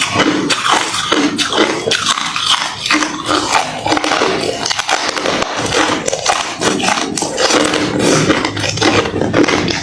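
Hard refrozen crushed ice being chewed: a continuous run of sharp, crunchy cracks.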